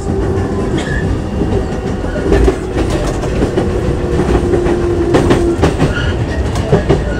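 Cabin sound of a JR East E233-5000 series electric train running into a station: a steady rumble with the clatter and clicks of wheels over the track, and a steady hum that stops about five and a half seconds in.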